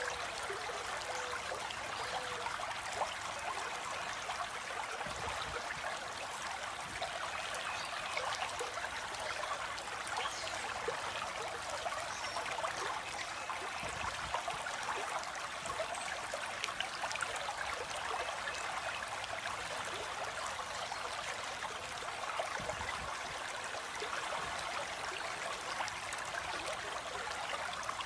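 Flowing stream water, a steady, even rush and trickle with no let-up.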